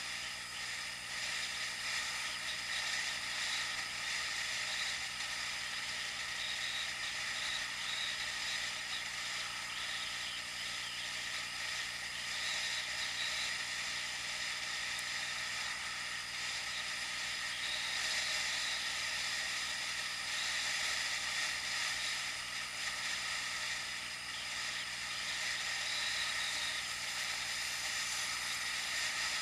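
Steady hiss of wind and road noise from a moving bike ride, picked up by a mounted action camera, with no sudden events.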